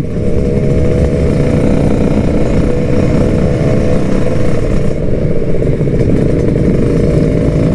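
Kawasaki Ninja RR 150's two-stroke single-cylinder engine running at a steady speed under way, its pitch holding nearly constant.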